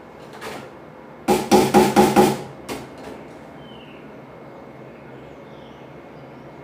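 A quick run of about five loud knocks, each with a short ringing tone, a little over a second in, with fainter single knocks before and after.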